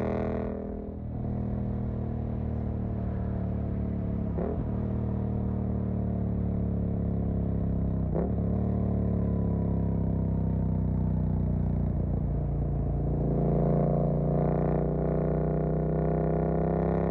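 Suzuki GSX-8S 776 cc parallel-twin engine through a Jeskap EVO aftermarket exhaust, heard while riding. The throttle eases off briefly just after the start, the engine note dips sharply twice mid-way, and the engine gets louder and climbs in pitch as the throttle opens near the end.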